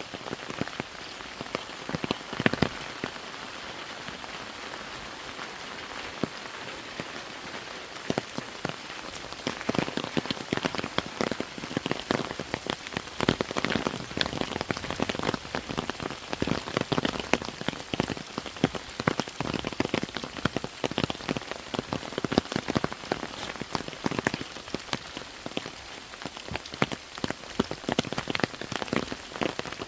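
Rain falling, with many separate drops striking close by over a steady hiss. The drops come thicker and louder from about ten seconds in.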